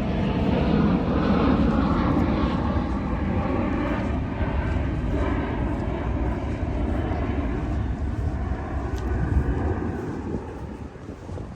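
An aircraft's engines rumble and whine as it flies over, then fade away over the last couple of seconds.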